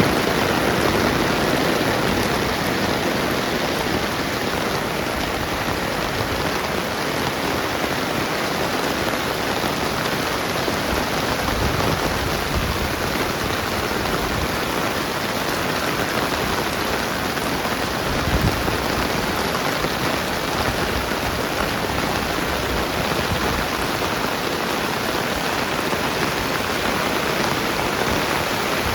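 Steady rain falling on the ground and surfaces, an even hiss with a brief low thump about eighteen seconds in.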